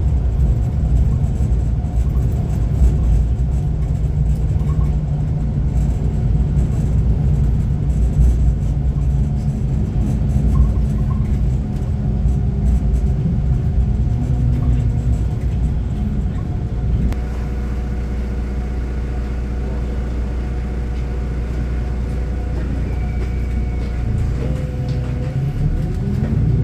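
Heavy construction machine's diesel engine running with a steady low rumble. It evens out about two-thirds of the way through, then rises in pitch near the end as the engine revs up.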